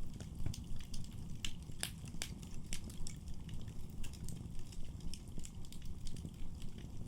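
Wood fire in a fireplace crackling, with frequent sharp pops and snaps over the low, steady rumble of the flames.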